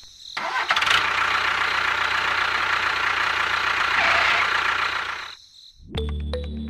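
Small engine running steadily with a rough, noisy sound, most likely the mini tractor's motor; it stops about five seconds in. Music begins just before the end.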